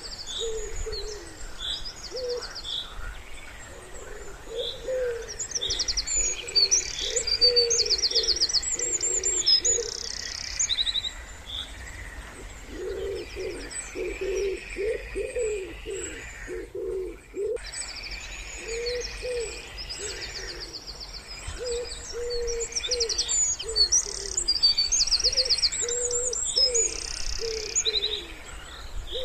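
Wood pigeons cooing in repeated low phrases, with small songbirds chirping and singing rapid high trills over them. The sound cuts out almost completely for about a second a little past halfway.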